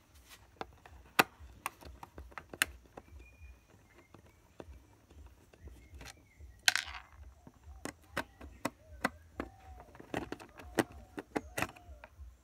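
Sharp clicks, taps and knocks of hand tools and small parts being handled while a USB Bluetooth card is taken out of a speaker box to be remounted, with one short hissing scrape about seven seconds in. A steady low hum runs underneath.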